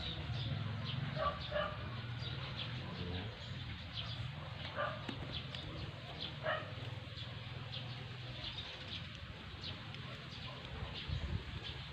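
Birds calling in short, scattered calls over a steady low hum.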